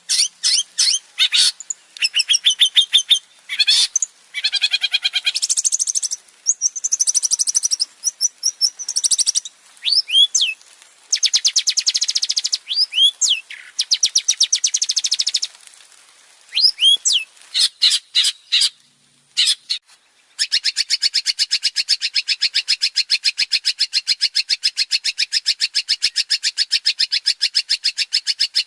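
Male long-tailed shrike (cendet) singing a varied song: quick runs of repeated notes and short rising slurred calls, broken by brief pauses. From about two-thirds of the way in it holds one long, fast, even chattering trill.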